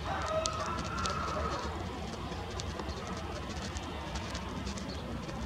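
A bird calls with a short whistled phrase during the first second and a half, over a steady low rumble and faint high ticks.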